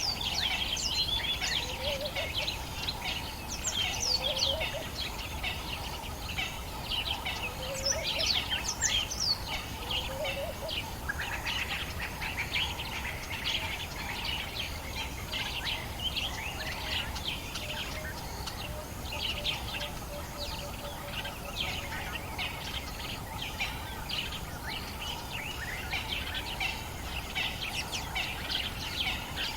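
Dawn chorus of many African bush birds, dense overlapping chirps, whistles and trills at sunrise. A lower, short rising call repeats several times in the first ten seconds. A faint steady low rumble of wind lies underneath.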